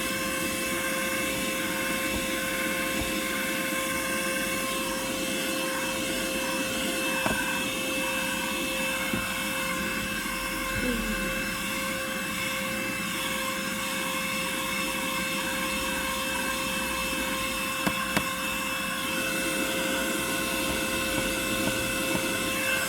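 Vacuum cleaner running steadily with a constant high motor whine, with a few light knocks along the way.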